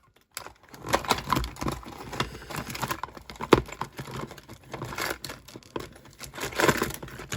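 Hands rummaging through a box of small workshop tools: irregular rattling and clinking, with a sharp knock about three and a half seconds in.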